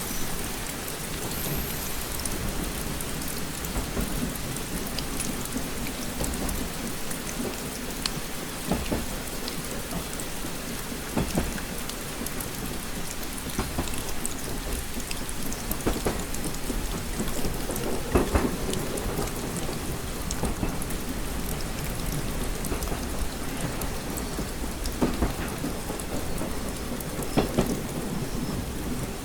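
Steady rain against a train window, with scattered sharp drop hits and a few louder ones, over a continuous low rumble.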